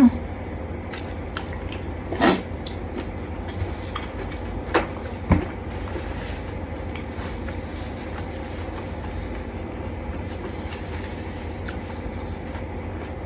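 A person eating seafood salad: soft chewing and mouth sounds with faint crackly clicks, and a few sharp knocks about two and five seconds in, over a steady low hum.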